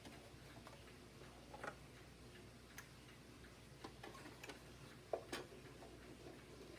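Faint, irregular clicks and light taps as small parts of a vacuum cleaner's plastic housing are handled and fitted during reassembly, about seven in all, with the sharpest pair about five seconds in.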